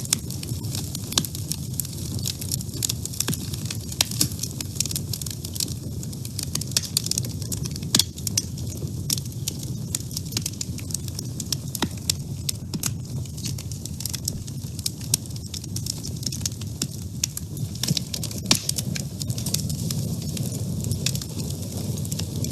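Wood fire burning in a woodstove, with frequent sharp irregular crackles and pops over a steady low rumble of flame.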